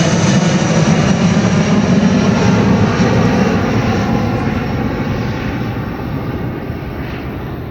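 Airbus A319's IAE V2500 jet engines at takeoff power, a loud steady roar that slowly fades from about three seconds in as the airliner moves away.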